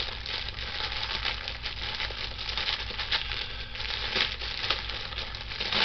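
Food sizzling as it fries in a pan: a steady hiss with occasional sharper crackles.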